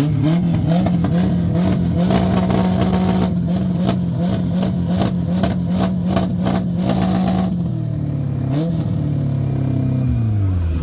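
Yamaha RD 135 two-stroke motorcycle engine running: the pitch rises at the start and holds steady for several seconds, then drops about three-quarters of the way in, blips briefly and falls away near the end.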